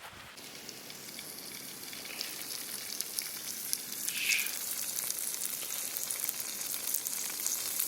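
Food sizzling in a hot pan, with a steady hiss and scattered crackles that grow gradually louder. A short, brighter sound comes about four seconds in.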